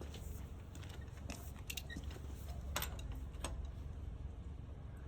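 Hand tools being handled: scattered light metallic clicks and clinks, the sharpest about three seconds in, over a steady low hum.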